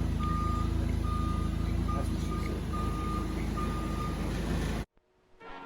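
A vehicle's engine running with a reversing alarm beeping steadily, a little faster than once a second. Both cut off abruptly near the end, and music starts.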